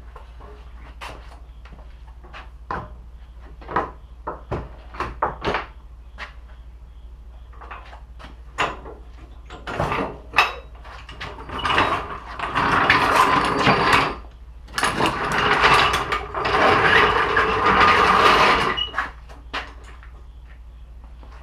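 Tool work: scattered clicks and knocks, then two longer stretches of loud mechanical noise about halfway through, one of about two seconds and one of about four seconds.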